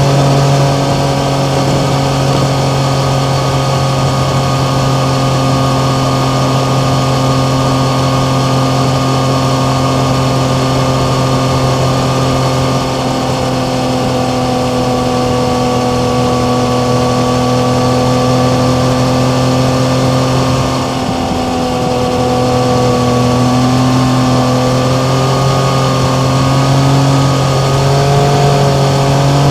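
Yamaha MT-09's inline three-cylinder engine running at a steady cruising speed, its pitch sagging slightly over the first twenty seconds. About two-thirds of the way in it briefly drops off, then it picks up again and rises in pitch as it accelerates near the end. An even rush of wind noise runs under it throughout.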